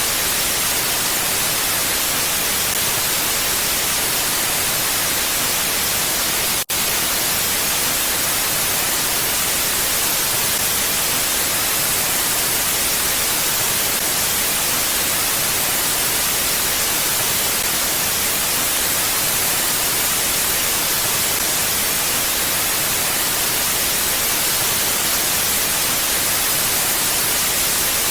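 Steady, even hiss of wind noise, strongest in the highs and without gusts, that cuts out for a split second about seven seconds in.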